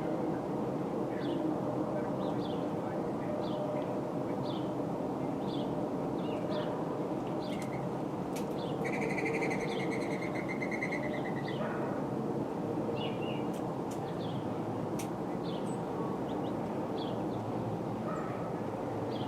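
Small birds calling with short, high, falling chirps about once a second, and one buzzy trill lasting a couple of seconds near the middle, over a steady low background rumble.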